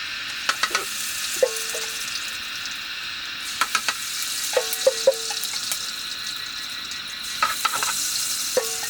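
Food sizzling in a hot pan with a steady hiss, while a utensil stirs it, knocking and scraping against the pan in short clusters every second or two.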